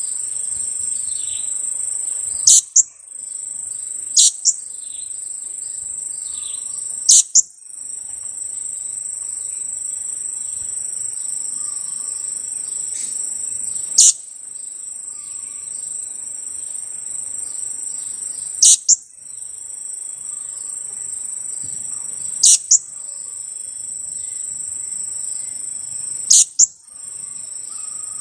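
A juvenile blue-crowned hanging parrot (serindit) giving sharp, high 'kiak kiak' calls, mostly in quick pairs, seven times over the stretch, against a steady high insect trill.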